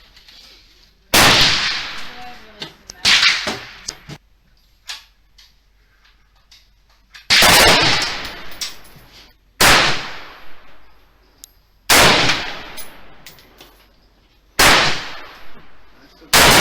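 Colt 6940 AR-15 rifle (5.56 mm) fired in slow semi-automatic single shots, about seven, a couple of seconds apart. Each shot has a ringing, echoing tail.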